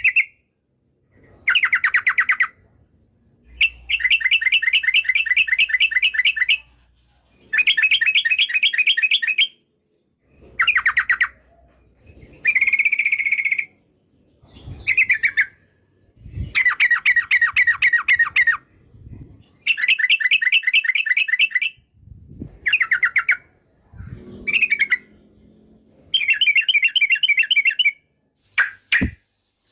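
Yellow-vented bulbul (trucukan) singing: a dozen or so loud phrases of fast, rapidly repeated chattering notes, each one to three seconds long, separated by short pauses.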